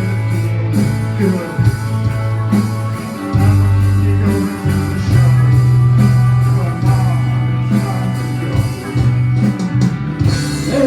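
Rock band playing an instrumental passage: electric guitar over long, held bass notes.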